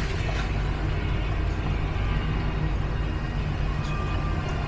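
Steady low engine rumble with a continuous background hum.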